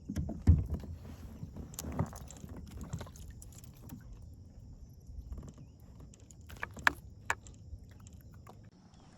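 Handling noises in a plastic kayak: low thumps and knocks against the hull, the loudest about half a second in, with a few sharp clicks and small rattles of fishing gear.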